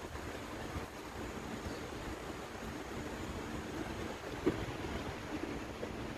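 Steady rushing noise like wind on the microphone, with a faint hum and one brief knock about four and a half seconds in.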